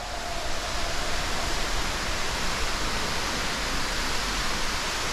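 Underground waterfall falling steadily inside a cave, an even rushing noise.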